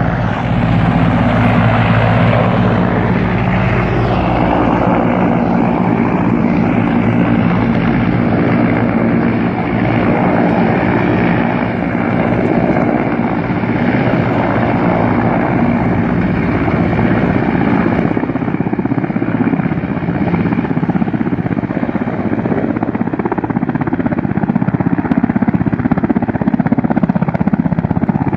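A loud, steady engine drone with a low, even hum that does not change throughout.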